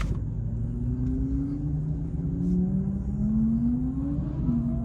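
BMW M4's twin-turbo straight-six engine pulling at low speed, its note rising steadily for about four seconds and then dropping back.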